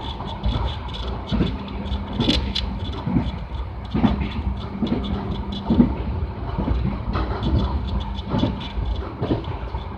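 Passenger train running along the track: a steady low rumble with a faint constant hum and frequent irregular knocks and clicks.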